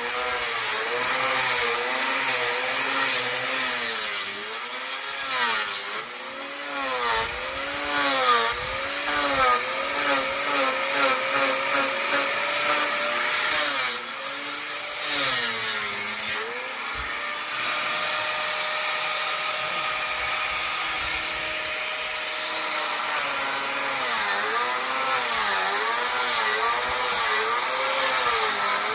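Electric power sander grinding thick hard paint off curved wooden rafters. The motor's pitch keeps dipping and recovering as the disc is pressed and worked along the wood, over a steady rasp of abrasion.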